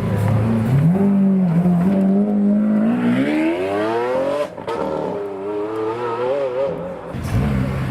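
A supercar's engine accelerating hard, its pitch rising steadily for about three seconds. There is a brief break about four and a half seconds in, as at a gear change, and then it pulls on at lower revs, with a deeper rumble coming in near the end.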